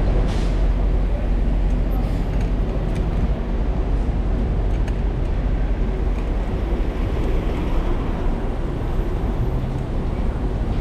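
Steady low wind rumble on the microphone of a bike-mounted camera while riding, mixed with city street noise.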